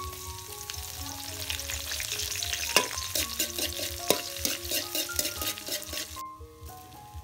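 Food sizzling and crackling as it fries in hot oil, with a couple of sharp knocks, and the sizzling cuts off suddenly about six seconds in. Background music plays throughout.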